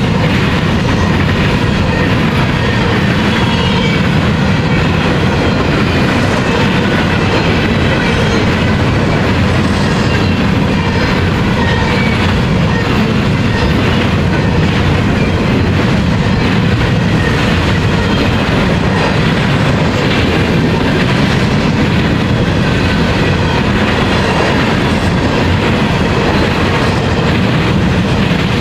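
Train rolling past at close range: a steady, loud rumble of steel wheels on rail with clickety-clack from the wheels over the track, and now and then a faint high wheel squeal.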